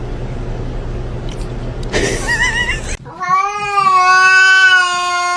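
A cat's long, drawn-out yowl held at a steady pitch, starting about three seconds in and lasting about three seconds. Before it there is a steady background hum, with a brief high warbling call about two seconds in.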